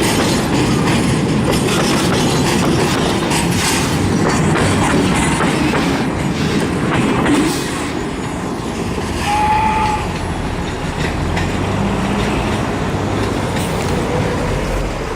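Wagons of a loaded freight train rolling past at a level crossing, with the clickety-clack of wheels over the rails. About halfway through the train's end goes by and the clatter gives way to a lower, steadier rumble.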